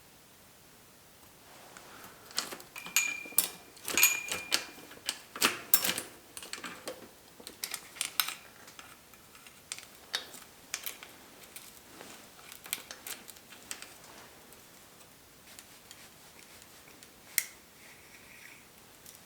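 Metal tools and small bicycle parts clicking and clinking during hands-on bike work, in a quick irregular clatter with a couple of brief metallic rings, then thinning out to a few clicks and one sharp click near the end.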